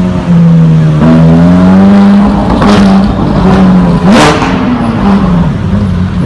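A loud supercar engine running, its pitch sinking and rising with the throttle, with a sharp quick rev about four seconds in.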